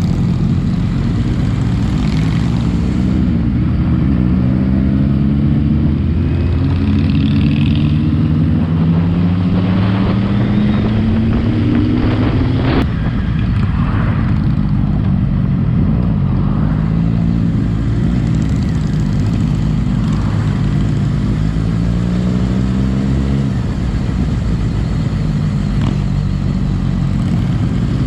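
Motorcycle engine accelerating through the gears: its note climbs steadily, drops at each gear change, then climbs again, several times over.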